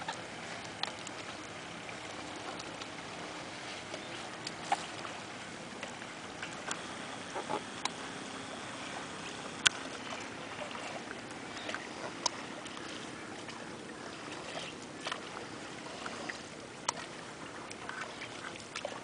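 Paddle strokes in river water: a steady wash of moving water with sharp little splashes and drips every second or two.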